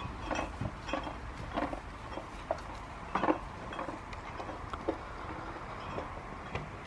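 Irregular light knocks, clunks and rustles of bags and gear being handled and packed.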